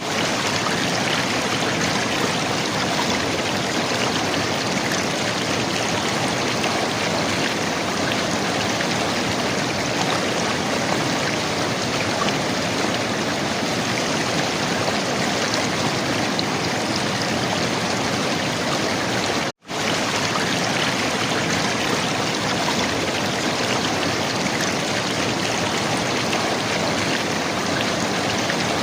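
River water flowing and gurgling in a steady, unbroken rush. It cuts out for a split second about two-thirds of the way through, then carries on unchanged.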